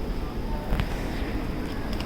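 Steady low rumble and hiss of background noise, with a faint click about three quarters of a second in.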